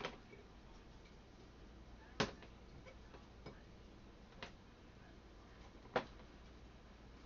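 Cucumbers being packed by hand into a glass jar, knocking against the glass: about five sharp, irregular knocks, the loudest about two seconds in and near the end, over a faint steady low hum.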